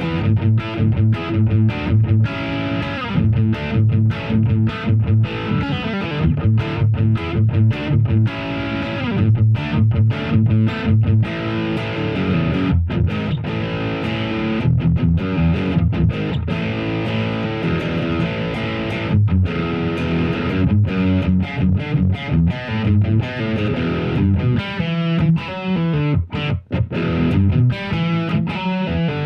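Electric guitar (a Harley Benton JA-60 Jazzmaster-style guitar with single-coil pickups) played through heavy high-gain distortion from a Mosky TW, a Wampler Triple Wreck "Mesa-in-a-box" clone. It plays rhythmic riffs with many short, abrupt stops between phrases.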